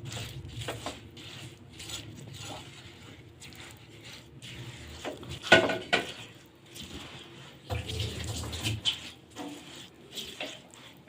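Irregular scraping and clicking of kitchen utensils, with one louder knock about halfway through.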